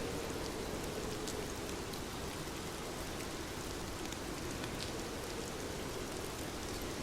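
Steady rainfall: an even hiss with scattered sharp drop ticks.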